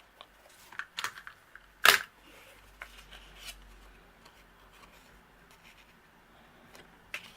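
Paper-crafting handling noises: small taps, clicks and brief rustles as strips of paper or ribbon are wrapped around a card panel, with one loud sharp click about two seconds in.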